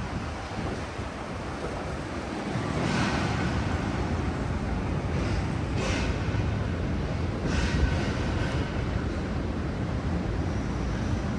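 Steady city-street traffic noise, with a few vehicles swelling past.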